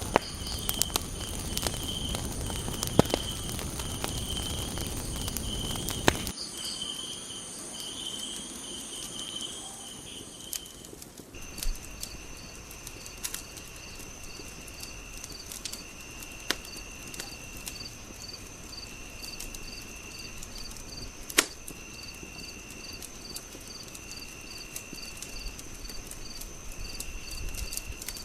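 A fire crackling with scattered sharp pops, over a night ambience of crickets chirping in steady pulses. The cricket chorus changes abruptly about six seconds in and again about eleven seconds in.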